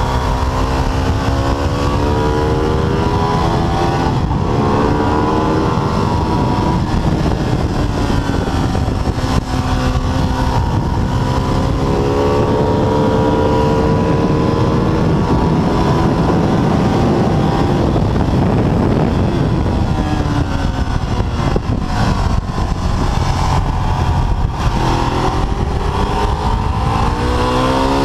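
Ducati 848's L-twin engine ridden hard, its revs climbing and falling several times as it accelerates and slows, under heavy wind rush over the bike-mounted microphone.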